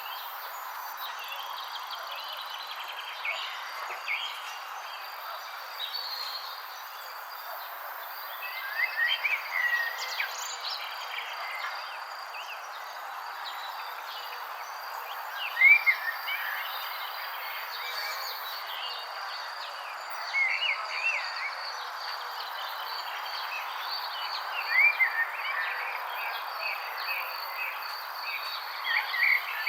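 Birds chirping in short clusters of quick up-and-down notes every few seconds, over a steady hiss and a constant high insect trill.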